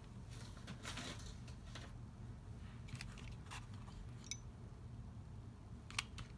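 Light rustling and small clicks of card and a ribbon bow being handled and fixed in place, with a sharper click near the end, over a faint low hum.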